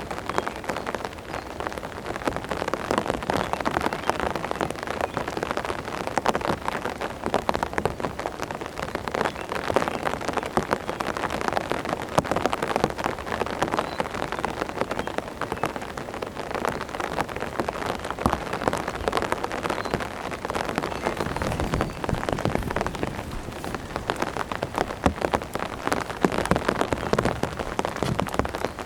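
Heavy, cold rain falling steadily, with countless drops striking close to the microphone.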